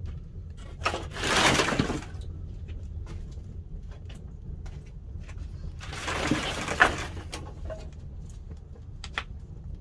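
Pine-wood fire in a wood-fired kiln burning with a steady low rumble and scattered sharp crackles. Two louder rushing swells come about a second in and again about six seconds in.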